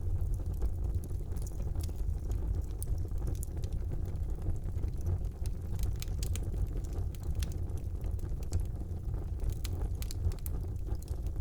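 Wood fire burning in a fireplace: a steady low rumble of flames, with scattered sharp crackles and pops from the burning wood.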